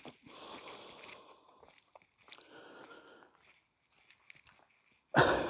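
Crunching and rustling, like footsteps on the ground during a walk, in uneven patches, with one short, much louder rustling burst about five seconds in.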